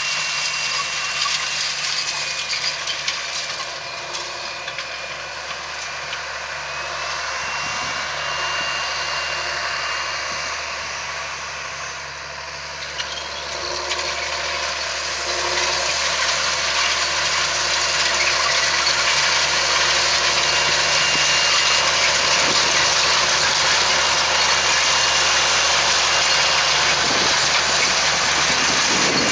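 John Deere 7920 tractor's six-cylinder diesel engine running steadily under load while pulling a seed drill, with a thin high whistle that wavers in pitch. It dips a little in level about halfway through, then grows louder and holds steady for the rest.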